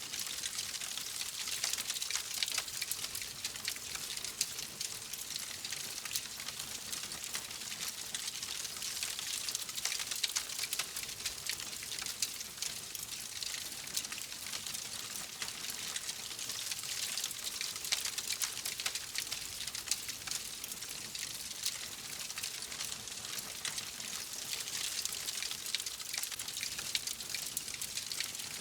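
Wood fire crackling: a dense, steady stream of small pops and snaps over a soft hiss.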